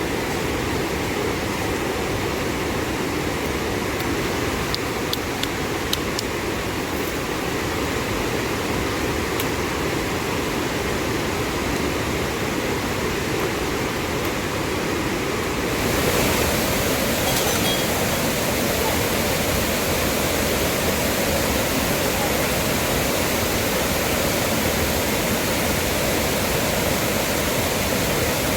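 Steady rushing of water, an even wash of noise with no pitch to it. About halfway through it shifts to a slightly louder, brighter rush.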